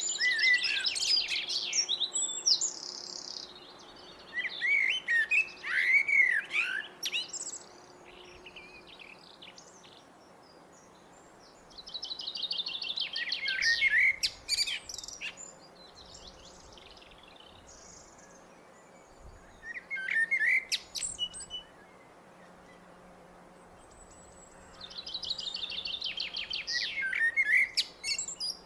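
Blackbird singing: five separate phrases, each a few low fluting notes running into a high, rapid twitter, with pauses of a few seconds between them.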